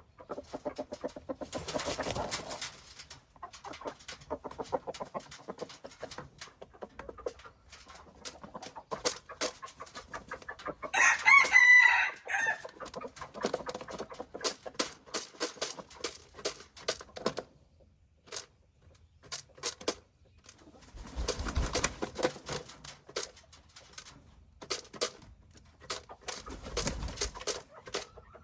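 A rooster crows once, loud and wavering, about a third of the way in. Scattered short clicks and quieter chicken sounds come before and after it.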